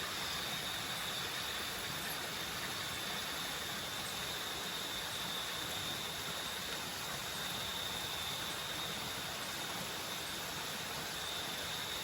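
Steady rushing noise of a waterfall, with an insect's continuous high trill held on one pitch throughout.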